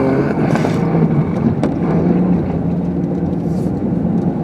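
Car driving through snow, heard from inside the cabin: a steady engine and road drone with tyre and snow noise.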